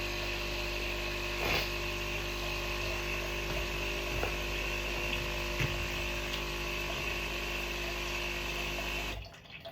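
Nespresso coffee machine running, its pump pushing water through with a steady hum and a few faint clicks, cutting off about nine seconds in as the cycle ends.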